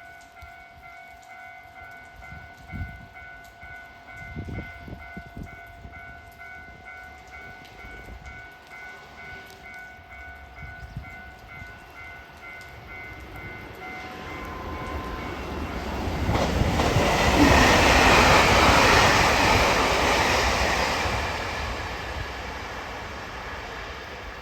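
A JR Hokkaido 789 series 1000 electric express train passing at speed. Its rushing noise builds from about two-thirds of the way in, peaks, then fades near the end. Before it arrives, a steady repeating ringing sounds and stops shortly before the train reaches its loudest.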